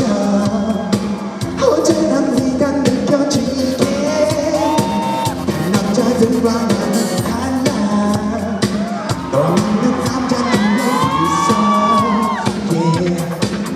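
Live pop song: a sung melody with long gliding held notes over a loud band backing with a steady beat.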